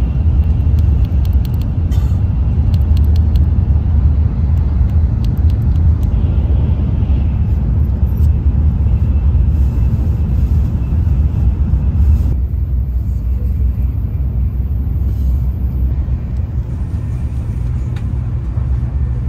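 Steady low rumble of a Tokaido Shinkansen train running, heard inside the passenger cabin, with a few light clicks in the first several seconds as the plastic coffee-cup lid is handled. The higher hiss in the cabin noise eases a little about twelve seconds in.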